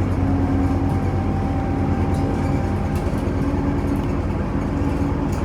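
Scania OmniCity city bus running on the road, heard from inside the cabin: a steady low engine drone with a faint whine that fades out about halfway through, and a few light clicks.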